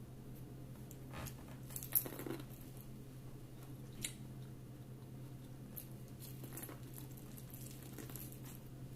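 Person biting and chewing corn on the cob, with faint crunches and wet clicks every second or two. The loudest bites come about two and four seconds in.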